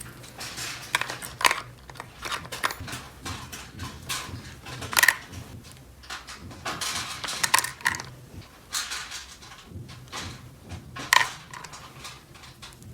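Small plastic toy pieces being handled: irregular clicks, taps and clatter, with sharper knocks about five seconds and eleven seconds in, over a faint steady hum.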